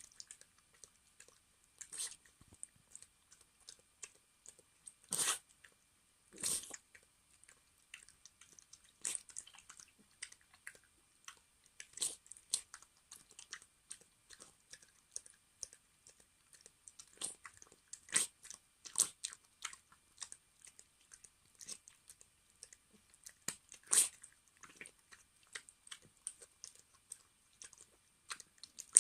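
A Maltese dog chewing and biting food, a steady run of irregular sharp crunches with a few louder ones.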